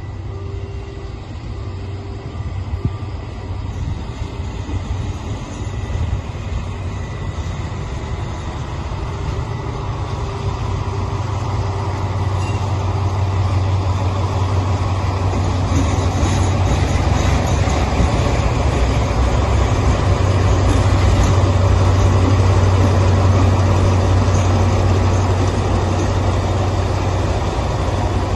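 Alsthom diesel-electric locomotive engine running with a steady low drone. It grows louder through the middle and is loudest about three-quarters of the way in, then eases slightly near the end.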